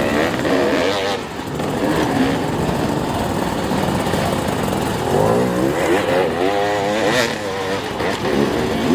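Off-road enduro motorcycle engine revving hard, its pitch rising and falling over and over as the throttle is worked.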